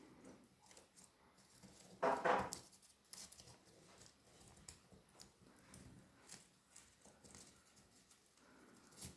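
Light tapping and clicking of a grey parrot busy at a food game. One short, louder pitched sound comes about two seconds in.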